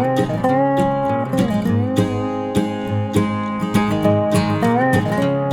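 Background music: acoustic guitar strumming at a steady beat, with a slide guitar line bending between notes.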